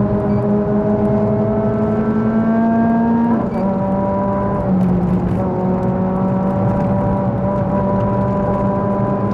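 Renault Clio Sport 197's 2.0-litre four-cylinder engine through a Supersprint race exhaust, heard on board under hard acceleration. The note rises until an upshift about three and a half seconds in drops the pitch, then the engine pulls on at a fairly steady pitch.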